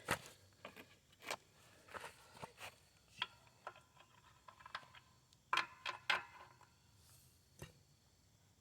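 Hand tools and metal parts being handled: irregular clinks, knocks and light scrapes, with a few louder knocks about five to six seconds in.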